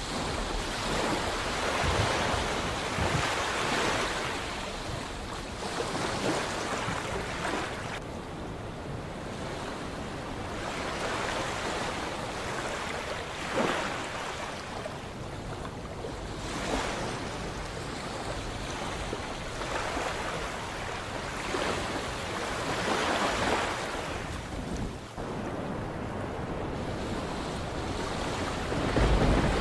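Sea waves breaking and washing up the shore, a steady rush of surf that swells and ebbs every few seconds.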